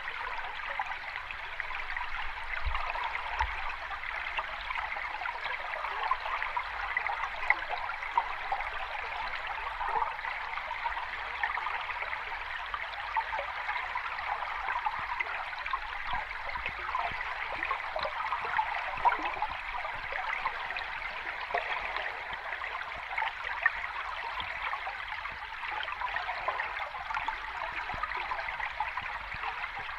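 Running water of a small cascade flowing steadily over rocks, a continuous splashing wash with a few brief louder splashes.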